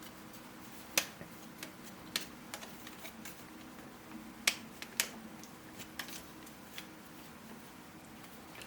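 3D printed plastic puzzle pieces being handled and snapped together: scattered sharp clicks and taps, the loudest about a second in and twice near the middle, over a faint steady hum.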